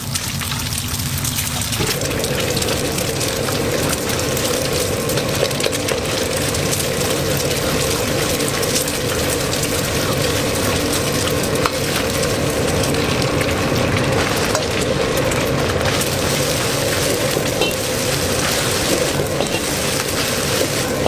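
Egg and rice sizzling in a hot wok while a metal ladle stirs and scrapes them. A steady drone comes in about two seconds in.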